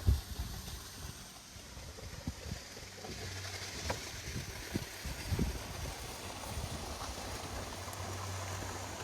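Steady rush of river water, with scattered low thumps.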